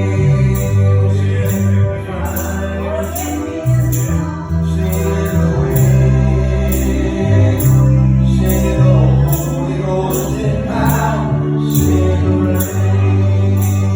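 Gospel praise band playing, with deep sustained bass notes and a tambourine striking on the beat, and some singing over it.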